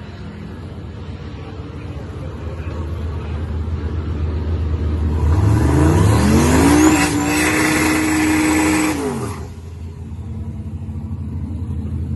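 Turbocharged LS V8 idling, then revving up quickly about five seconds in and holding high revs for about two seconds under loud noise with a high whistle over it, as in a burnout. It then drops back to a rumbling idle.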